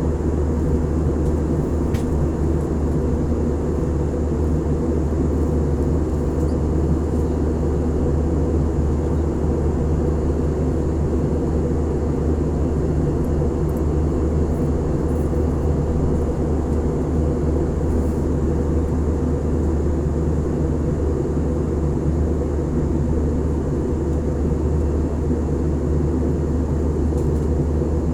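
Steady, unchanging drone of engines and rushing air heard inside a passenger airliner's cabin.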